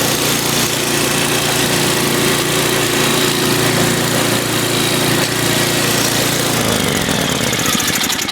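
1997 MTD Yard Machines snowblower engine running steadily on its first start in almost a month. Near the end it slows and dies away.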